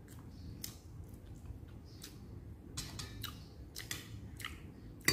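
A person chewing and smacking her lips while eating braised chicken wings by hand: faint, scattered soft wet clicks, with one sharper click near the end.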